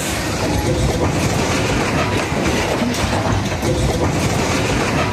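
Train rolling past close by: a steady, loud rumble of wheels on the rails.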